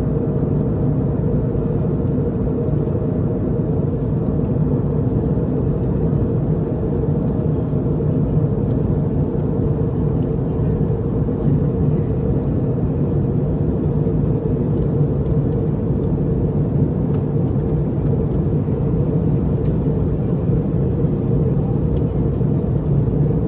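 Steady in-flight cabin drone of an Airbus A320 airliner: the twin jet engines and the airflow over the fuselage make an unbroken low rumble with a hum in it.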